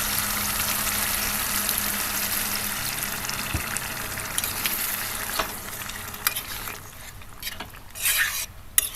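Chicken curry sizzling in a hot pan just after a little water has been added, the hiss slowly dying down. A few clicks and scrapes of a spoon against the pan near the end.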